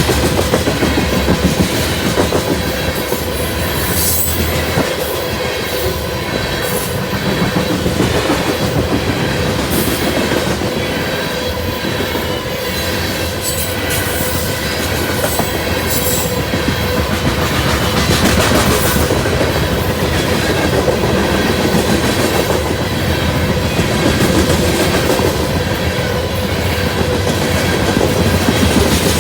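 A loaded grain train's freight cars rolling past, their wheels clacking over the rail joints, with steady high squealing from the wheels on the rails.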